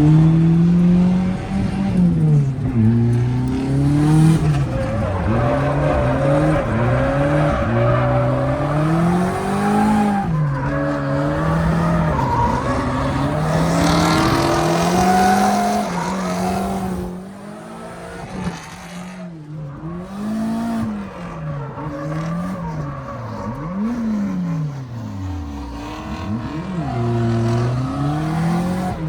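Ford Mustang drift car's engine revving up and down over and over while drifting, with the tyres squealing. The revs swing every second or two, and the car goes quieter for a while about two-thirds of the way through.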